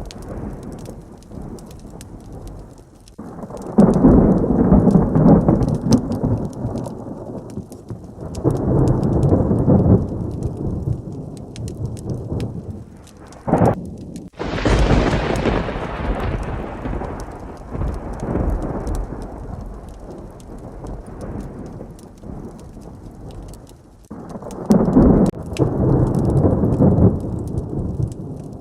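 Heavy rain with thunder rolling in several long rumbles. About halfway through there is a sharp thunderclap, then a loud crash that slowly dies away.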